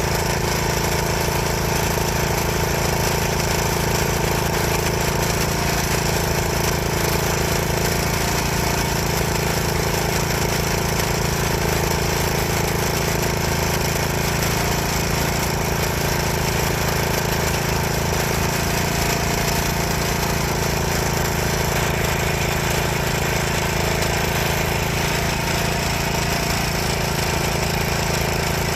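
Backhoe engine running steadily with an even, rapid clatter.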